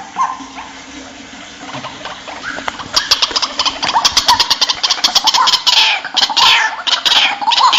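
White-breasted waterhen calling: scattered calls at first, then from about three seconds in a dense, rapid run of harsh repeated notes with falling croaks, growing louder toward the end.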